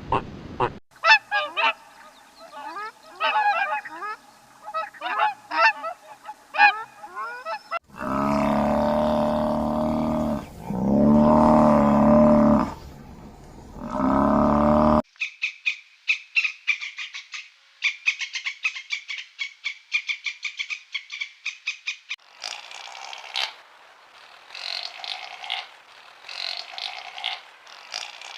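A run of different animal calls. First come high chirps, then three long, loud calls of about two seconds each, then rapid trilling calls and pulsed calls near the end.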